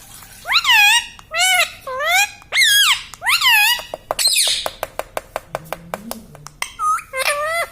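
Indian ringneck parrot giving a string of five loud, high-pitched calls, then a rapid run of sharp clicks at about eight a second, then two more calls near the end.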